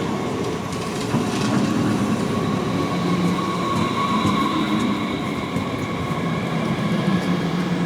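A train running by: a loud, steady rumble with a few thin high tones held over it.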